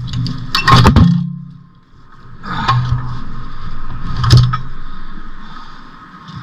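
Metal clanking and scraping as a manual transmission is worked free and pulled out of the car: a loud clatter about a second in, then two more sharp knocks.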